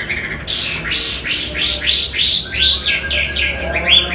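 Chinese hwamei (wambi) singing: a fast run of loud, down-slurred whistled notes, about three or four a second.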